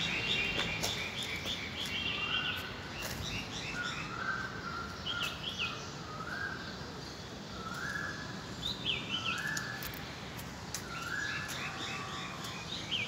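Several birds calling in trees: one short call repeated every second or two, with quicker, higher chirps over it, against steady background noise.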